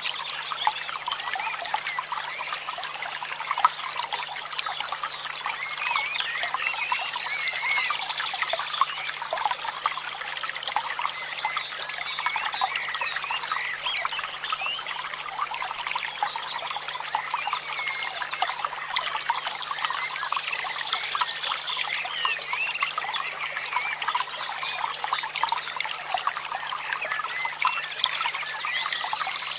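Water trickling and bubbling steadily, with a steady low hum underneath.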